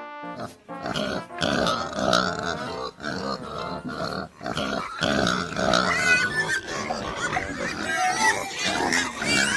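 Pigs grunting, with higher-pitched squeals in the second half.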